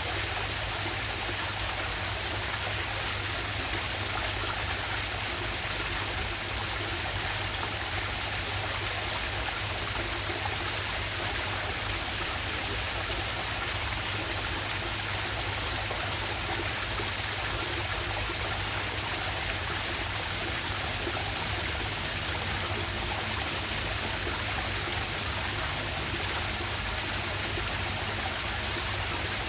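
Small waterfall on a river: water rushing and splashing in a steady, unbroken hiss.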